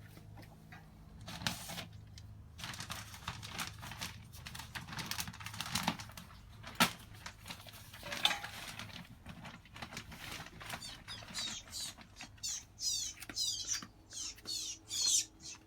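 Rustling and scratching with a few sharp knocks, then a small bird cheeping in a quick series of short, high, falling notes, several a second, over the last few seconds.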